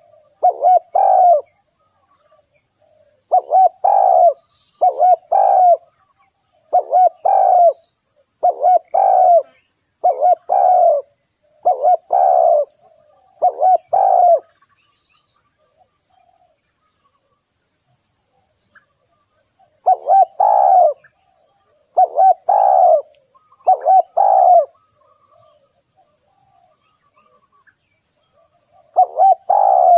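Spotted dove cooing: a decoy bird's song of repeated short coo phrases, each about a second long and a second or two apart. The phrases break off for about five seconds in the middle and again near the end.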